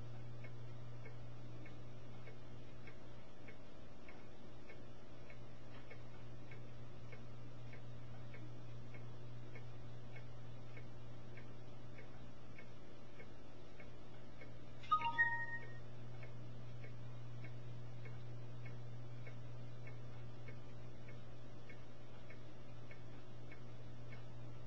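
Steady low hum with faint regular ticking, about two ticks a second. A brief pitched chirp or chime comes about 15 seconds in.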